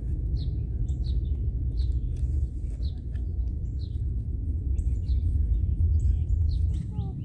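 Small birds chirping: short, falling chirps repeated about once a second, over a steady low rumble.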